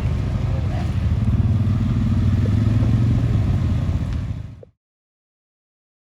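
Car engine running with a rough low rumble, fading out about four and a half seconds in and giving way to dead silence.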